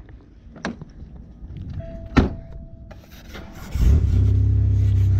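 A car engine comes on about four seconds in and runs steadily at idle. Before it there is a sharp knock and a brief steady beep. Over the engine, a scraper scratches frost off the frosted rear window glass.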